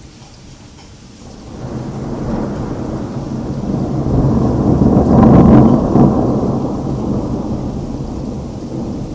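A long roll of thunder, building about a second and a half in, loudest a little past the middle, then slowly dying away, over steady rain.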